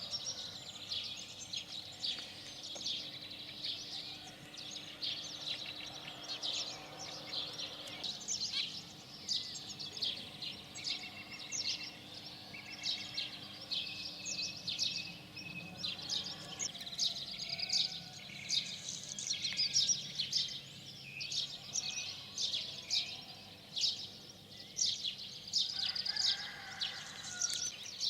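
Spring morning chorus of many small songbirds, quick chirps and trills overlapping without a break.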